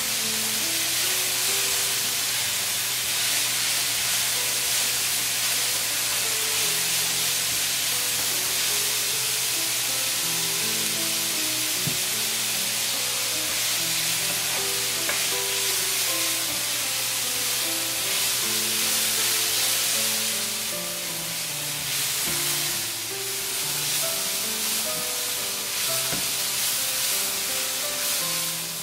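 Julienned zucchini sizzling as it is stir-fried in a nonstick frying pan, with a spatula stirring and scraping through it. Background music plays over the sizzle.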